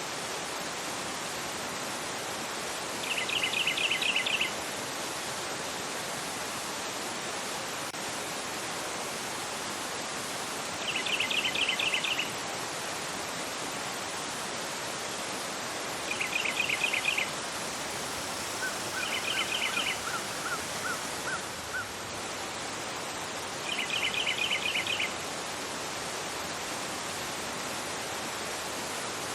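Fast river rushing over a rocky bed, a steady noise of water throughout. A bird's high trill, about a second long, rises above it five times, and a fainter second bird gives a quick series of short notes near the middle.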